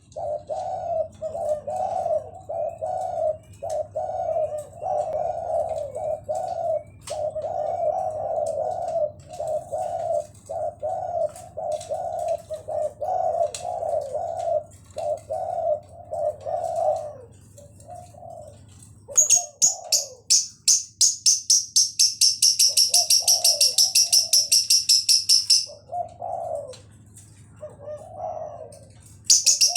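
Spotted dove (tekukur) cooing over and over in a steady rhythm. From about two-thirds of the way in, a lovebird joins with loud, rapid, high-pitched chirping in evenly spaced pulses, which stops for a few seconds and then starts again near the end while the dove goes on with scattered coos.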